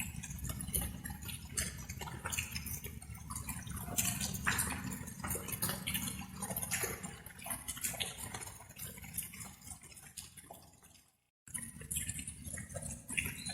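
Light rain dripping: water drops falling and splashing in quick, irregular succession over a steady low rumble. The sound fades, cuts out for a moment about eleven seconds in, then resumes.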